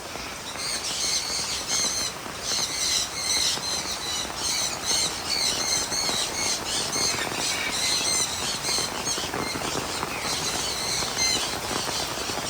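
Caged aviary birds calling over and over in short, high squawks, several a second, with a short break about three-quarters of the way through, over the steady hiss of heavy rain.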